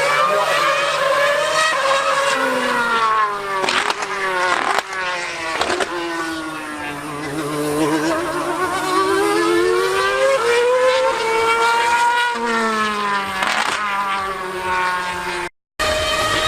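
High-revving racing engine on a run, its pitch climbing with several quick gear-change breaks, sinking to a low point midway, then rising again. A steady low hum sits underneath, and the sound cuts out for a moment near the end.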